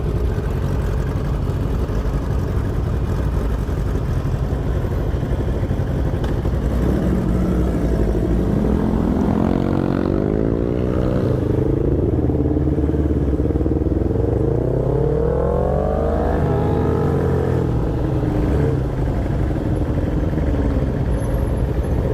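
Motorcycle engine on the move with a steady low rumble of wind and road underneath. It is revved hard twice, its pitch climbing each time, in the middle of the stretch.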